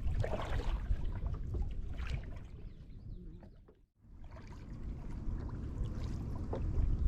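Kayak on the move: water splashing and dripping from the paddle and lapping on the hull, over a low steady rumble. It fades out about halfway through and comes back.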